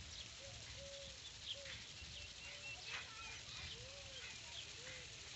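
Faint birds calling: a string of short, low arched calls at irregular intervals, with thinner high chirps above them.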